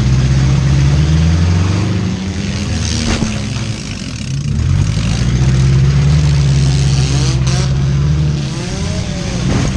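A 2001 Subaru Outback's four-cylinder engine revving hard in a demolition derby, its pitch rising and falling as the driver pushes on and backs off. There are sharp knocks about three seconds in and again near the end, typical of car-to-car hits.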